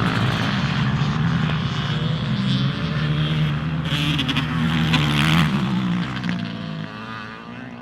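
Racing motorcycle engines running hard on an ice track, their pitch rising and falling as the bikes rev, fading away over the last couple of seconds.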